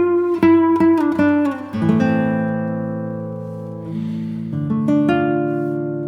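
Background music: an acoustic guitar plays a quick run of plucked notes, then lets a few chords ring and fade, with a fresh pluck near the end.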